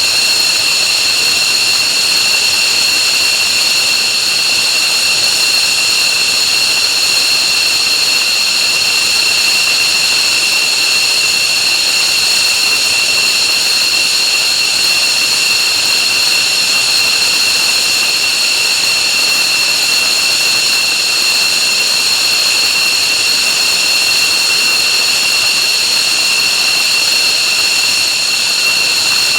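F-15J Eagle's twin F100 turbofan engines running steadily after start: a loud, high-pitched whine made of several steady tones over an even rushing roar, with no change in pitch or level.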